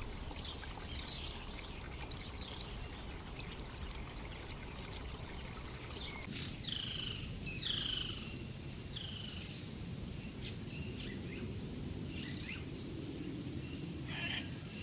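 Wild birds calling over a steady rush of flowing water. About six seconds in, the calls grow louder: a run of short, falling whistled notes repeated every second or so.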